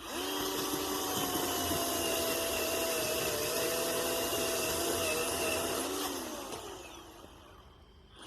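Ryobi 18V brushless cordless chainsaw switched on, its electric motor and chain running with a steady whine. About six seconds in the trigger is released and the motor winds down in pitch and fades out.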